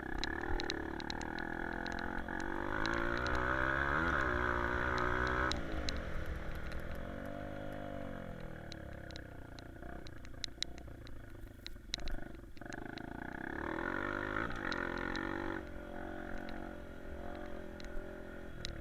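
Honda CRF150F's single-cylinder four-stroke engine revving up and easing off again and again as the dirt bike is ridden around a track: the pitch climbs, falls back, dips low about twelve seconds in, then climbs again. Sharp ticks of stones and rattles come through, with wind rumbling on the helmet microphone.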